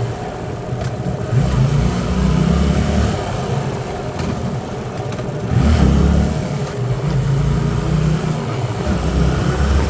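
Hyosung Aquila 125's V-twin engine running while riding. It pulls harder about a second and a half in and again near six seconds in, and eases off in between.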